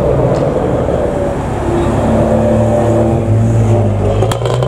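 BMW 1 Series hatchback engine pulling away, its note settling to a steady pitch, with a quick run of sharp cracks near the end.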